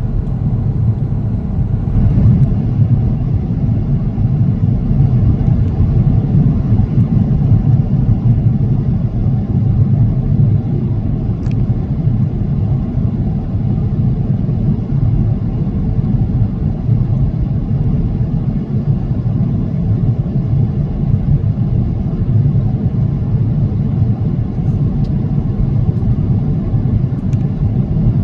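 Steady low rumble of cabin noise inside an Airbus A330-900 airliner in flight: the drone of its Rolls-Royce Trent 7000 engines and the rush of air over the fuselage.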